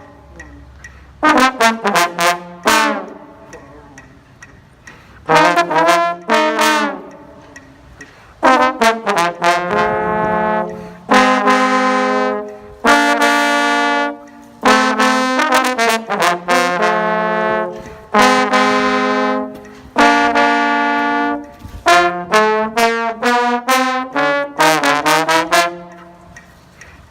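A brass instrument plays lively phrases of quick, tongued notes separated by short pauses, with a few longer held notes about halfway through and again around two-thirds of the way in.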